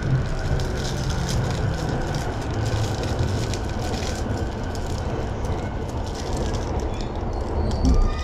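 Inside an electric commuter train pulling slowly into a station: a steady low rumble of wheels and running gear with faint clicks. A louder thump comes just before the end as the train comes to a stop.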